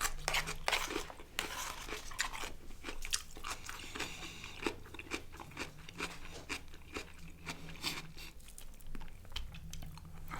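Close-miked chewing and crunching of a mouthful of chicken kebab, rice and salad, with many small irregular clicks and smacks of the mouth.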